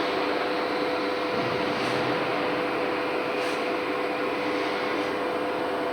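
Steady hum and hiss of running machinery, with a constant mid-pitched tone, from a powered-up CNC router setup.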